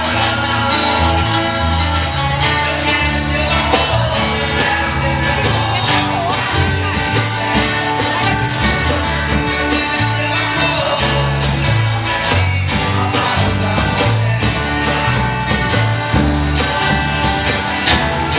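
A band playing a song live, with a singer's voice over bass and guitar.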